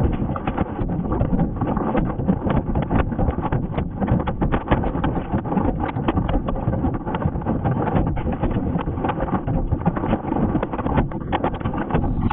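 Hailstones pelting a car: a continuous, dense clatter of hard hits on the body and glass.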